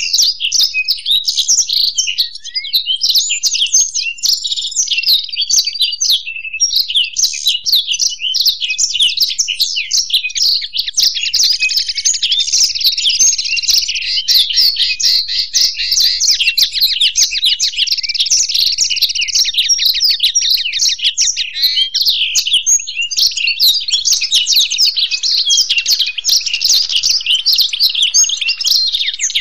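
A black-throated canary (blackthroat) and a European goldfinch singing together in a long, unbroken stream of fast twittering song. A run of rapid, evenly repeated trill notes comes in about a third of the way through and holds for several seconds.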